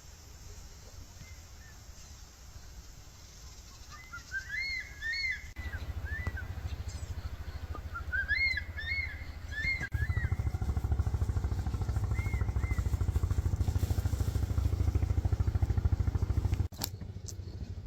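A small motorcycle engine runs with a low, rapid putter. It grows louder about ten seconds in and cuts off suddenly near the end. Short bird chirps come twice in the first half.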